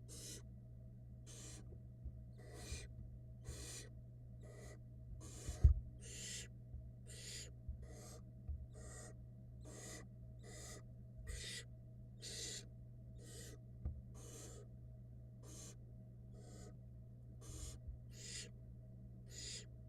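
Barn owl nestlings giving their hissing, rasping begging calls for food, a short hiss about once a second, one after another. A single low thump about six seconds in, from movement in the nest box.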